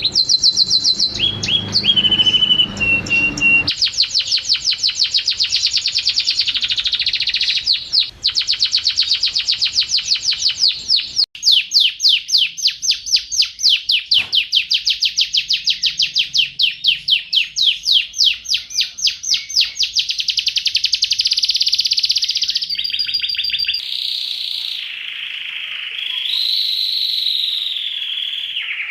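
Domestic canary singing: long, rapid trills of fast repeated notes, with a few short held whistled tones near the end.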